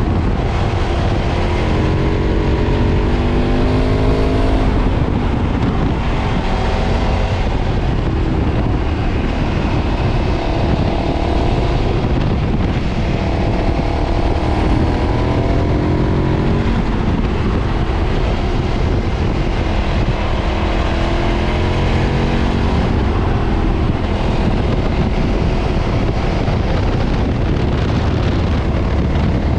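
KTM 990's LC8 V-twin engine through its stock exhaust, under way on the road, its note rising and falling again and again as the rider opens and rolls off the throttle.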